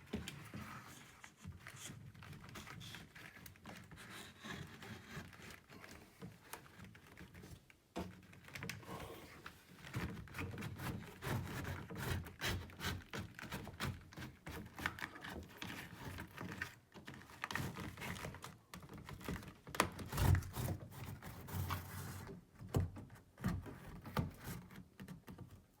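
A 20 by 25 by 1 HVAC air filter being handled and slid into its slot in the heating and air-conditioning unit: irregular rustling, scraping and knocks, busiest in the second half.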